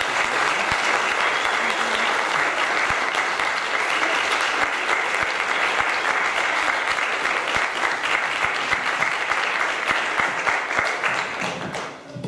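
Audience applauding steadily after a choir piece, dense clapping that stops abruptly near the end.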